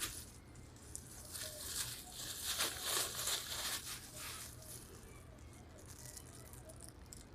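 Soft rustling and crackling of light handling, loudest in the first half, over a faint steady low hum.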